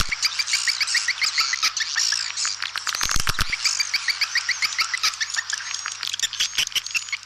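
A swiftlet calling track: many swiftlets twittering together in dense, continuous high chirps mixed with rapid clicking. This is the lure sound used to draw swiftlets to a nesting house. Two brief low thuds are mixed in, one about three seconds in.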